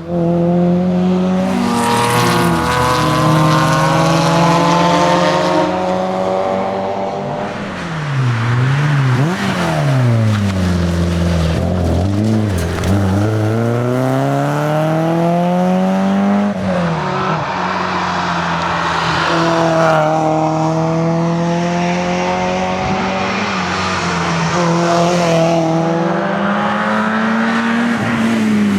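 Porsche 968 CS's 3.0-litre four-cylinder engine driven hard: revs held high for long pulls, then falling and climbing again several times about a third of the way in as it brakes and changes gear through corners, before pulling hard again.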